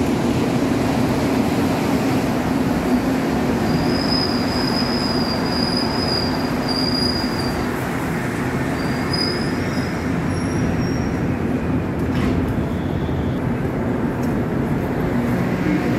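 Metro train running, a steady rumble of the moving car with a high wheel squeal about four seconds in and again briefly near ten seconds.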